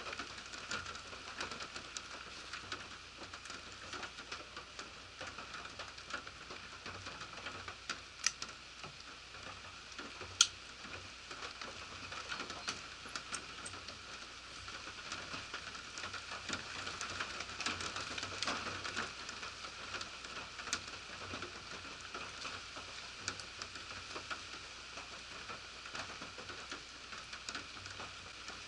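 Steady rain pattering on surfaces, with many close drops ticking and two sharper taps a couple of seconds apart about a third of the way through.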